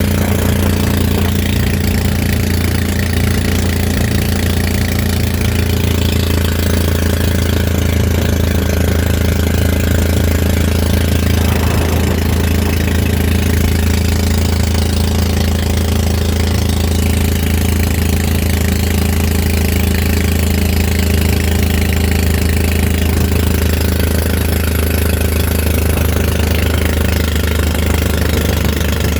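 Fishing boat's engine running at a steady speed: a loud, even, low drone that neither rises nor falls.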